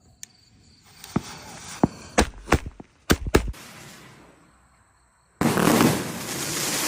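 A 100-shot 1.2-inch fireworks cake going off: a few scattered sharp pops, then about five seconds in a sudden loud, dense run of bangs and crackling as the shots fire in quick succession.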